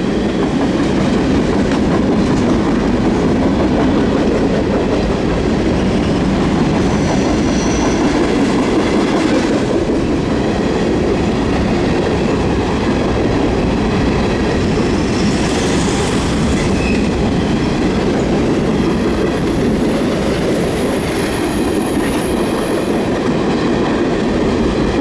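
Freight cars of a mixed freight train rolling past on the rails in a steady, loud rumble with wheel clatter. A faint high squeal joins in during the second half.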